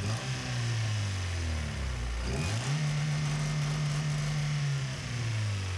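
Honda B20 VTEC hybrid four-cylinder engine idling, then revved by hand at the throttle body: the pitch rises about two and a half seconds in, holds higher for a couple of seconds and drops back to idle near the end.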